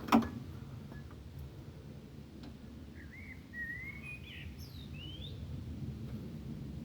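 A single sharp knock just after the start, then birds chirping in the background over a steady low rumble, with a run of rising and falling calls in the middle.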